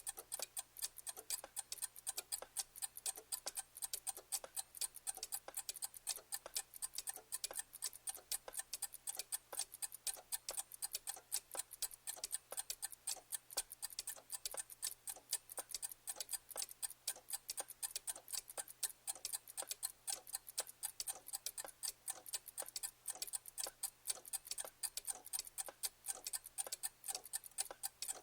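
Clock ticking steadily, with crisp, bright ticks coming quickly, several times a second.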